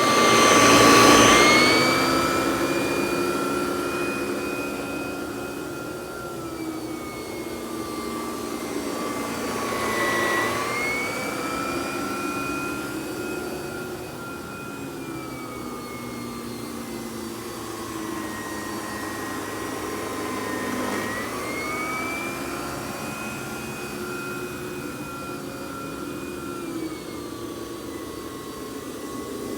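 Miele S147 canister vacuum running with a Vacuflo T21 electric powerhead on carpet. Its motor whine dips in pitch three times, about a second in, around ten seconds in and around twenty-one seconds in, each time climbing back up as the nozzle is worked across the carpet.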